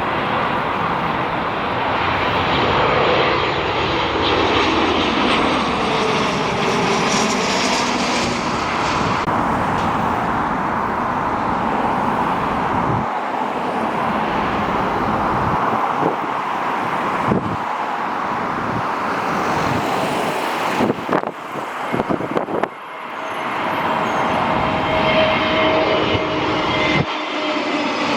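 Jet airliner engine noise, a steady loud rush with slowly gliding whine tones, broken by a stretch of uneven, dipping loudness about three-quarters of the way through.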